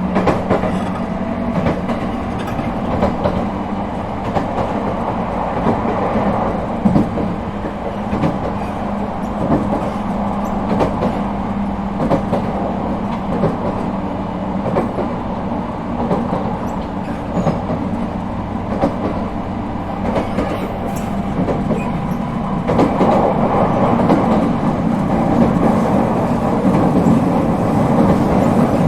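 Echigo TOKImeki Railway ET127 series electric train running at speed, heard from inside the car: a steady wheel-on-rail rumble with clicks from rail joints, growing louder about 23 seconds in.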